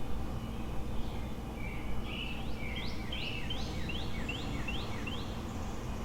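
A songbird singing a run of about eight quick, repeated slurred notes, starting about a second and a half in, over a steady low hum of city traffic.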